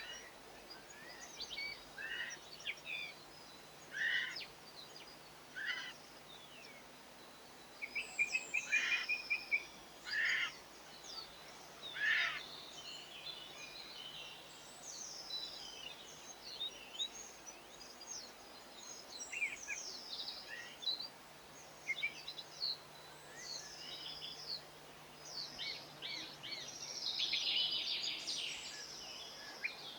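Small garden songbirds chirping and twittering in short, irregular calls, with a louder cluster about a third of the way in and a dense burst of twittering near the end.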